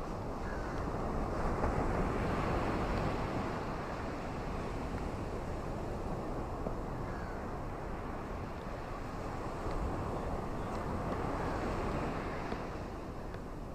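Ocean surf washing onto a beach: a continuous rushing wash that swells twice, about nine seconds apart, as waves come in.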